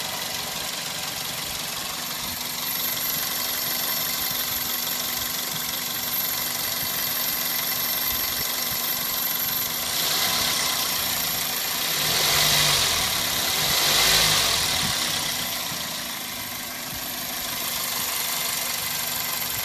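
Vehicle engine idling steadily, swelling louder twice near the middle before settling back.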